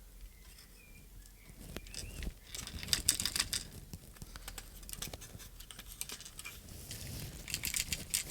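A loose plastic button piece rattling and clicking inside the plastic case of a RadioMaster Zorro radio transmitter as the case is moved about, in irregular clusters of light clicks and taps, busiest about three seconds in and again near the end.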